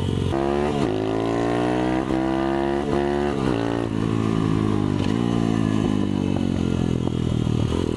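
Small motorcycle engine accelerating up through the gears: its pitch climbs and drops back at each shift, about four times in the first few seconds, then falls slowly as the bike eases off.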